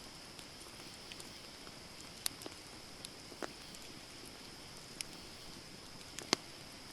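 Wood campfire crackling: scattered sharp pops and snaps over a steady high hiss, the loudest pops a little over two seconds in and near the end.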